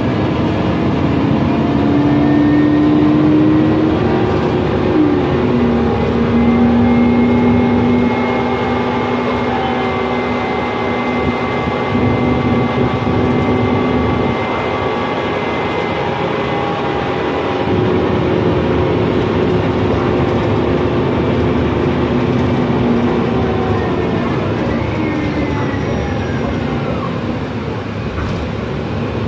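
Mercedes-Benz Conecto NGT city bus under way, heard from inside: its OM936G CNG engine running along with the whistle of the Voith DIWA automatic gearbox. Several steady whining tones step and glide in pitch as the bus changes speed, with a falling glide near the end.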